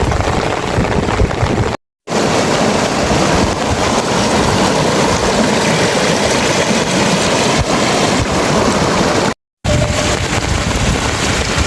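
Loud, steady rushing of water in heavy rain, broken by two brief dropouts to silence, about two seconds in and about nine and a half seconds in.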